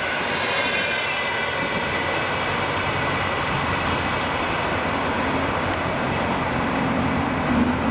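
Passenger train's last coaches rolling past and away down the track: a steady rumble of wheels on rails, with high ringing tones that fade over the first few seconds. A low hum grows louder near the end.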